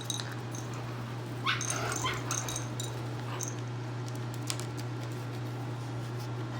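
Quaker parrot calling: a few short high chirps at the start, then a louder burst of rising squawks about a second and a half in, over a steady low hum.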